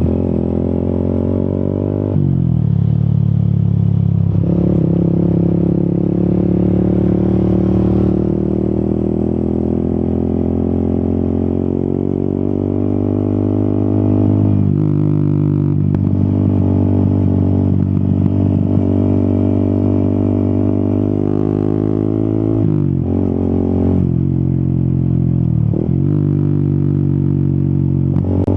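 Yamaha XSR 155's single-cylinder 155 cc engine under way. Revs climb steadily through the gears, with sharp drops in pitch at each gear change or lift of the throttle: about two seconds in, near the middle, and twice near the end.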